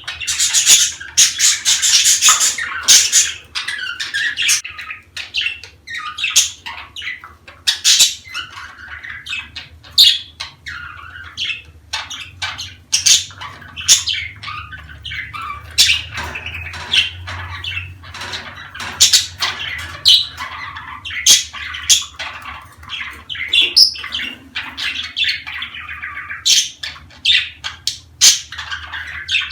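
Budgerigars chattering continuously, a dense run of overlapping warbles, chirps and sharp squawks from several birds. This is budgie chatter of the kind played to stimulate budgies to breed.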